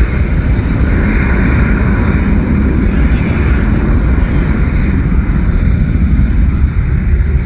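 Boeing 767-424ER's twin General Electric CF6 turbofans at takeoff thrust: a loud, steady jet roar with a deep rumble, its higher hiss easing after about three seconds.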